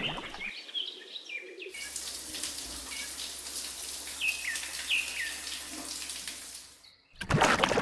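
Birds chirping in short, falling calls over a steady hiss of running water; the water cuts off suddenly about seven seconds in, and a short, loud burst of noise follows.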